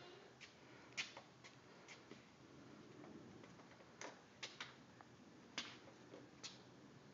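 Near silence with a few faint, irregularly spaced clicks.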